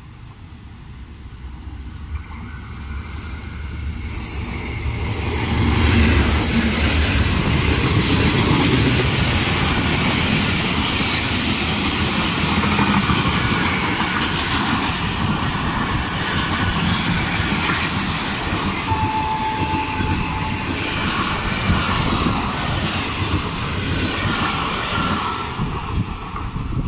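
A train approaching and passing close by. The rumble builds over the first six seconds into a long, steady run of wheels clattering over the rail joints as the coaches go past.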